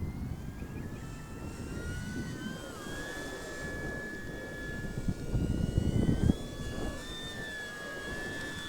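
Electric motor and propeller of a Durafly Slow Poke RC foam airplane whining in flight, its pitch stepping and gliding up and down with the throttle. Wind buffets the microphone, loudest about five seconds in.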